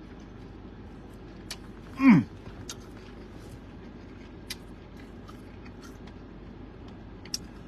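Biting into and chewing a crispy fried chicken sandwich, with a few faint crunchy clicks. About two seconds in the eater makes a short vocal sound that falls in pitch.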